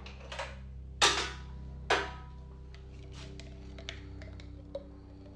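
Kitchen clatter: two sharp knocks about a second apart near the start, then lighter clicks and taps, as containers and utensils are handled on a counter.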